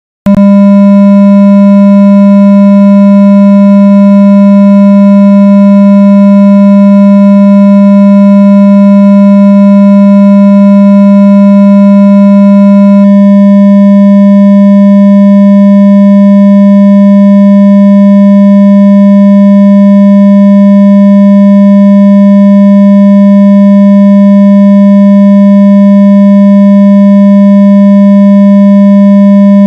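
Loud, steady low electronic hum tone of the kind played through a phone speaker to vibrate water out of it, a phone water-eject tone. It starts a moment in and holds unchanged in pitch, with a slight change in its buzzy overtones about halfway through.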